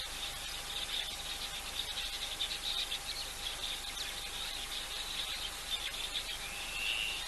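Steady chorus of insects such as crickets, a dense high chirring that carries on throughout, with a faint steady hum beneath it. A short bird call sounds near the end.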